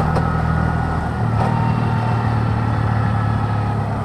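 A road vehicle's engine running steadily while driving, with road noise; its note changes about a second in.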